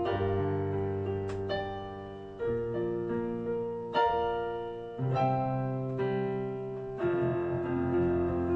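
Piano playing slow, gentle chords, a new chord struck about once a second and left to ring.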